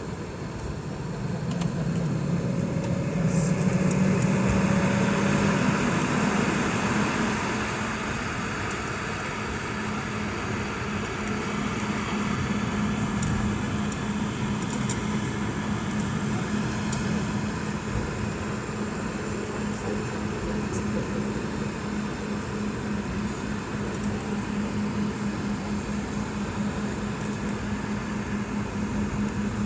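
Boeing 717 cabin noise: the steady rushing drone of its two rear-mounted Rolls-Royce BR715 turbofan engines and the airflow, with a steady low hum under it. It swells about two seconds in and eases back to a steady level after about seven seconds.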